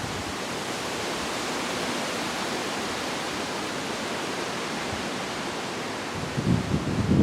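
Wind blowing with a steady rush. Near the end, gusts start buffeting the microphone with a low rumble.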